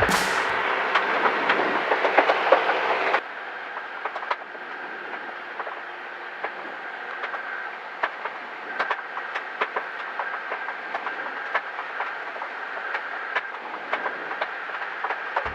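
Cessna 172 cabin noise with a faint steady whine, broken by many irregular sharp clicks and knocks, as on a landing rollout or taxi. The whole sound drops abruptly about three seconds in and then goes on quieter.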